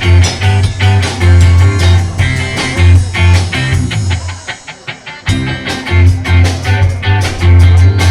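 Live rock band playing an instrumental passage with guitar, bass and drums. A little past the middle the bass drops out for about a second, leaving only quick even drum hits, before the full band comes back in.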